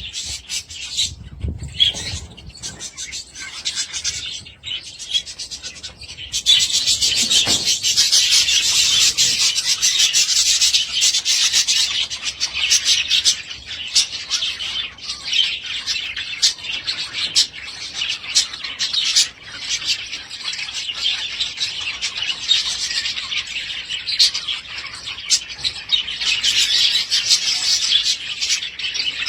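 Budgerigars chirping and chattering in a dense, continuous stream of quick high chirps, which grows much louder about six seconds in.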